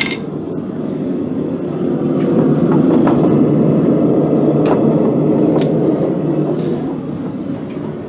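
Blacksmith's forge running with a steady low rushing noise that grows a little louder about two seconds in, with a couple of faint metal clicks around the middle.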